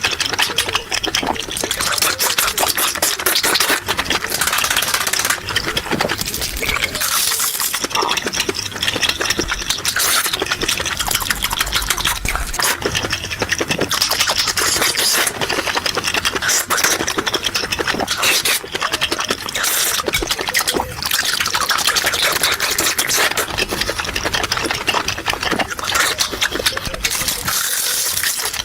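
Close-miked wet chewing and slurping of chewy large intestines, a steady run of sticky, crackling mouth sounds.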